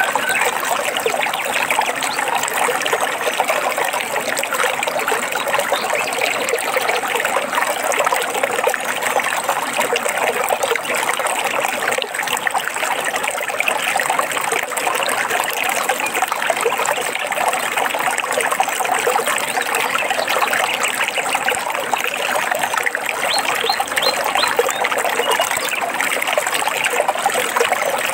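Running water trickling and babbling steadily, as in a small stream, with a few faint high chirps near the end.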